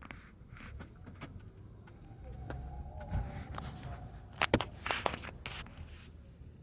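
Car creeping into a parking spot: low engine and road rumble with a scatter of clicks and knocks, the sharpest a cluster about four and a half seconds in.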